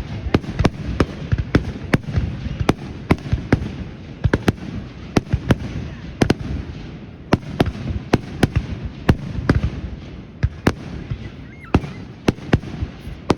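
Fireworks going off: many sharp, irregular bangs, a few a second, over a continuous low rumble of further explosions.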